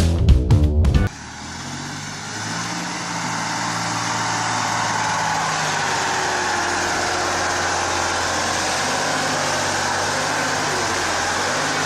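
Music cuts off about a second in. Steady motor-vehicle driving noise follows, engine hum under road and tyre noise, rising over the next few seconds and then holding steady.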